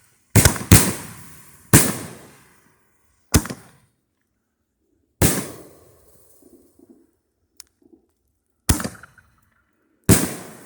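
Consumer firework artillery shells going off from a fan rack: about seven sharp booms at irregular intervals, each trailing off in an echo.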